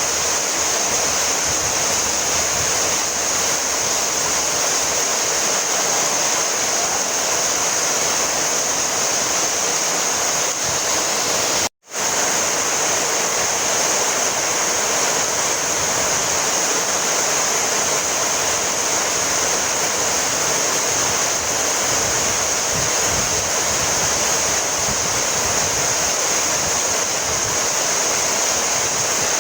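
Heavy rain falling steadily, an even hiss of drops. The sound cuts out completely for an instant about twelve seconds in, then resumes unchanged.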